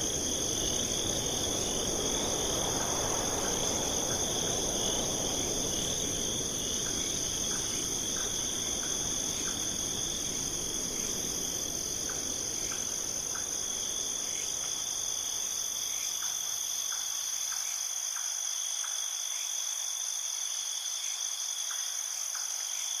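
A night chorus of crickets, a steady high trill that carries on throughout, with short scattered chirps. A lower rushing noise underneath fades out about two-thirds of the way through.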